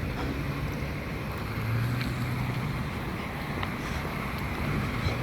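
A low engine hum, louder from about two seconds in, over a steady wash of outdoor noise.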